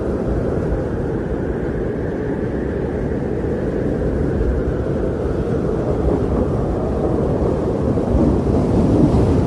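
Strong blizzard wind blowing in a steady deep rush that swells in a gust near the end.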